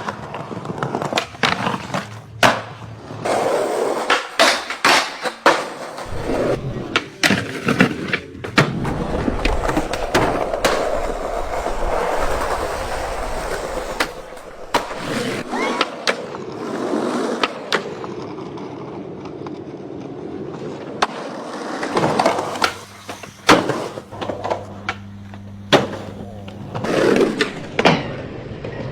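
Skateboard being ridden on hard ground: wheels rolling, broken by many sharp clacks and slaps of the board and trucks hitting the ground. There is a longer stretch of steady rolling in the first half.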